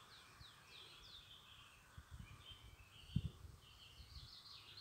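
Faint birdsong: a quick run of short, falling chirps in the first second or so, then scattered softer notes. Low rumbles on the microphone underneath, with one brief thump a little past three seconds in.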